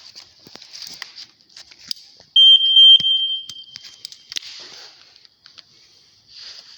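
Sea-Doo's electronic beeper sounding a few quick high beeps that run into one longer steady beep, as power reaches the newly fitted SBT MPEM; light clicks and handling noise around it.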